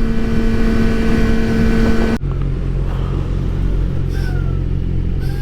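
Yamaha R6 inline-four sport bike engine running at steady revs under wind noise, then about two seconds in its note drops suddenly to a lower steady pitch as the bike comes off the throttle.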